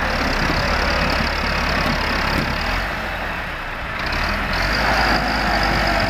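Tractor diesel engine running steadily, its level dipping a little about three and a half seconds in and then picking up again.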